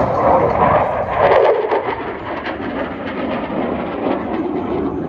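Jet aircraft passing overhead: a loud rushing roar with a fine crackle, easing off near the end.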